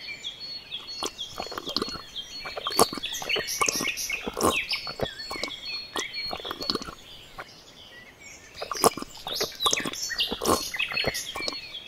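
Small birds chirping and twittering: many short, quick calls, with scattered clicks among them.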